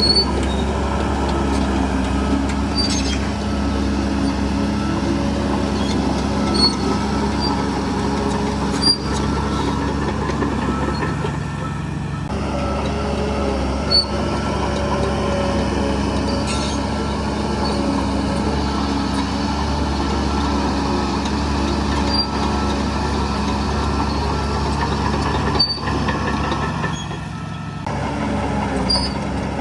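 Diesel engine of heavy earthmoving machinery running steadily, with a few short sharp clicks or squeaks scattered through it.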